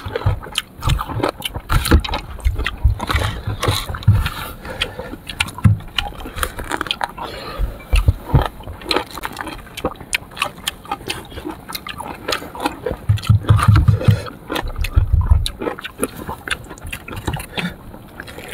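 A person eating sour fruit: chewing with many quick, irregular clicks and some low thuds.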